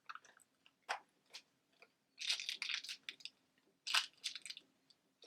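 A few small clicks, then two short bursts of crinkly rustling about two and four seconds in, as a makeup highlighter and its packaging are handled.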